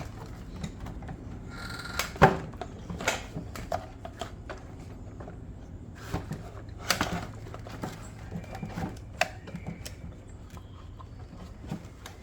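Parts of a Ryobi small engine being handled and fitted back together: scattered clicks and knocks, the loudest about two seconds in.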